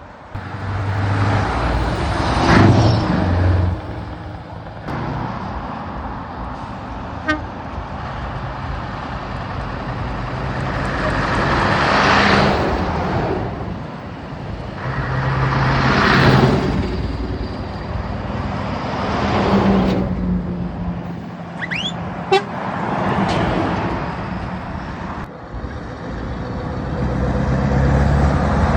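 Heavy trucks driving past one after another, each engine swelling loud as it goes by, with horn toots among them.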